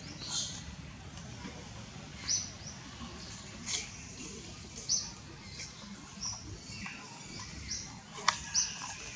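A bird chirping: short, high, downward-hooked notes repeating every second or so, about eight or nine in all, with one sharp click near the end.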